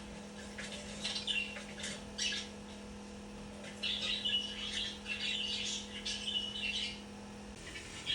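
Young budgerigar chirping in quick, scratchy clusters, a short run about a second in and a longer one from about four seconds in.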